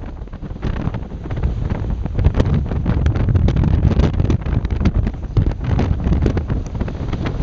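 Strong gusting wind buffeting the microphone: a heavy low rumble with crackling. It eases for about the first second, then builds again.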